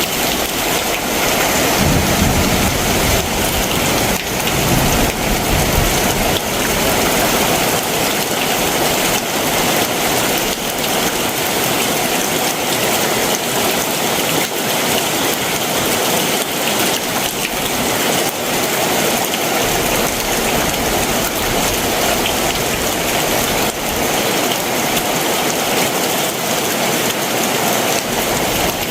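Heavy summer monsoon downpour: a dense, even hiss of rain falling steadily.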